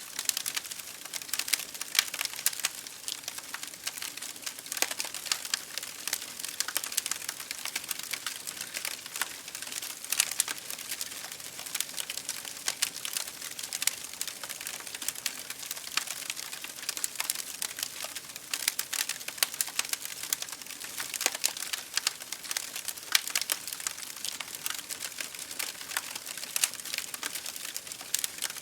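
Wood fire crackling in a fireplace, mixed with rain hitting a window pane: a dense, irregular stream of small pops and ticks over a steady hiss.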